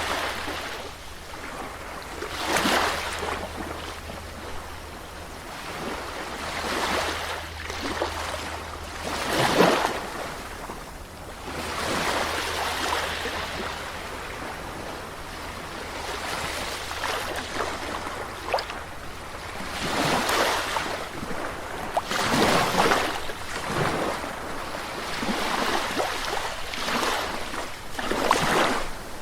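Ocean waves breaking and washing on a shore, in swells every two to five seconds, with a steady low rumble underneath.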